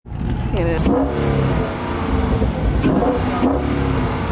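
Car engine running and being revved, a steady low rumble with rising and falling pitch, mixed with people's voices; it cuts in abruptly.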